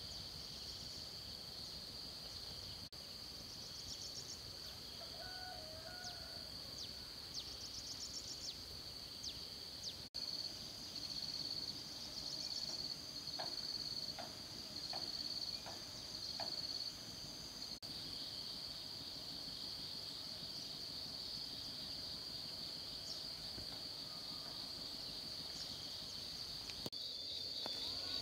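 A steady high-pitched insect chorus of crickets or similar insects trilling, which turns into a pulsing rhythm for several seconds in the middle. A few faint short chirps sound under it.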